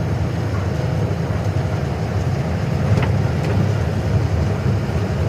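Goods truck's diesel engine and road noise heard from inside the cab while driving: a steady low rumble.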